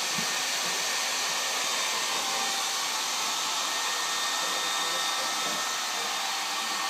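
Hand-held hair dryer running steadily: a loud, even rush of blown air with a faint high whine from its motor.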